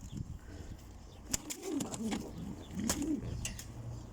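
Domestic pigeons cooing in a loft: two low, rolling coos, with a few faint sharp clicks between them.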